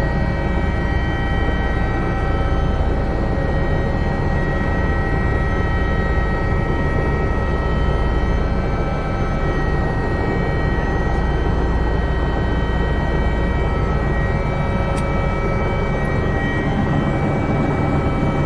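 Helicopter running steadily: a constant whine of several tones over a loud low rumble, with no change in pitch or level.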